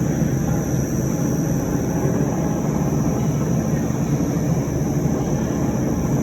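Wire brush drawing sanding machine running steadily: a continuous mechanical rumble with a constant high whine above it.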